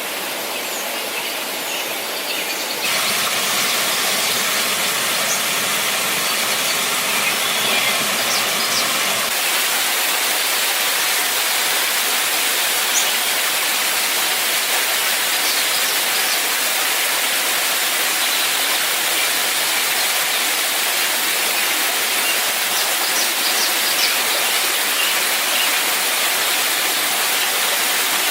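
Steady rushing of a waterfall, an even hiss with no rhythm, growing louder and fuller about three seconds in and changing again about nine seconds in.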